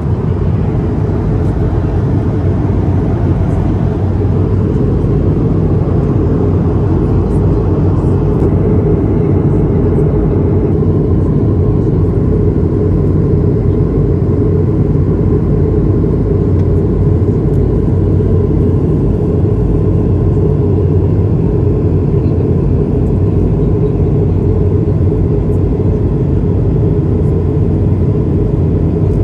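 Steady low roar of an Airbus A220-300 cabin in flight: engine and airflow noise from its Pratt & Whitney PW1500G geared turbofans, unchanging throughout.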